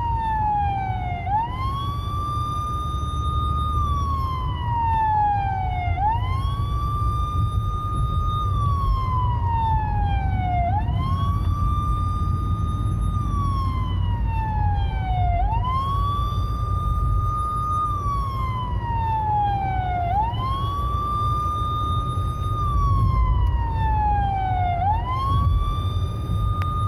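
Police siren (hooter) on a 2020 Hyundai Creta police car sounding a wail: each cycle rises quickly, holds high briefly, then falls slowly, repeating about every four to five seconds, about six times. A steady low rumble runs underneath.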